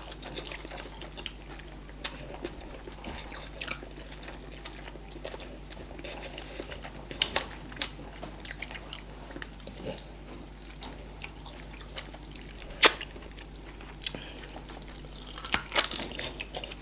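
People eating fufu, okra soup and meat by hand, with scattered wet mouth smacks and chewing clicks. The sharpest click comes about 13 seconds in. A steady low electrical hum runs underneath.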